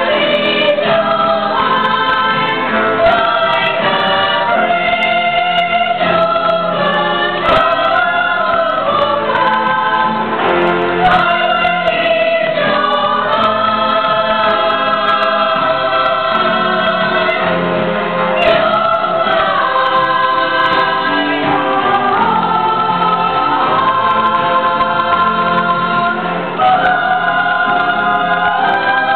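A choir singing a song together in held, sustained notes, recorded in a room.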